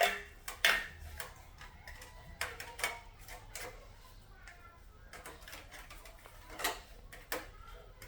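Irregular sharp clicks and knocks of tools and small parts being handled on a workbench during amplifier repair, a few ringing briefly, the loudest right at the start and again just after.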